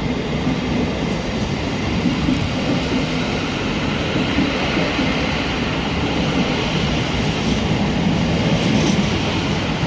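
Electric multiple-unit passenger train running along the platform, with a steady rumble of wheels on rail.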